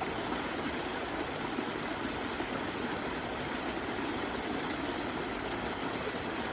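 Steady rush of running water, like a flowing stream.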